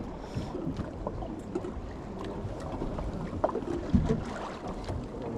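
Aboard a sea-fishing boat: steady low rumble of the boat and water, with wind buffeting the microphone and scattered short knocks on deck.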